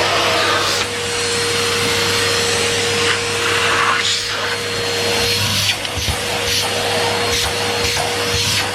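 Numatic Henry Pet cylinder vacuum cleaner running steadily, its motor holding a constant whine over the rushing suction. Short irregular scuffs and knocks come from the floor tool as it is moved.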